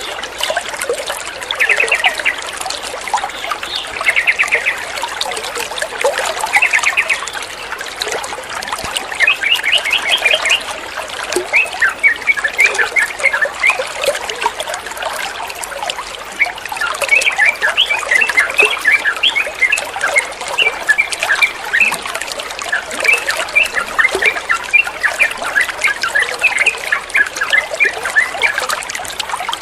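Running water trickling steadily, with a bird chirping over it: short dense trilled bursts in the first seven seconds, then busier runs of quick chattering notes, typical of a yellow-vented bulbul's calls used in trucukan therapy recordings.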